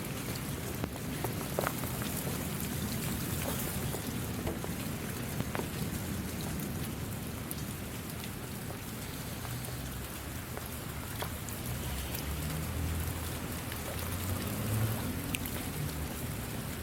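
Steady rain falling, a constant hiss with scattered individual drops tapping.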